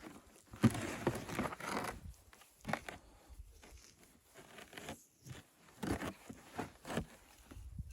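Rustling and crinkling handling noise, dense for the first two seconds, then scattered soft knocks and crunches.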